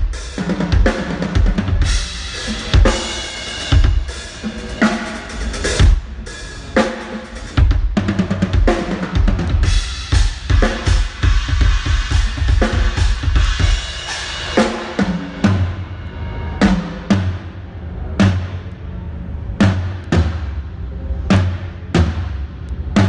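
Drum kit being played: kick drum, snare and cymbals in busy, dense patterns. About fifteen seconds in it thins to spaced accented hits with ringing cymbals over a sustained low note.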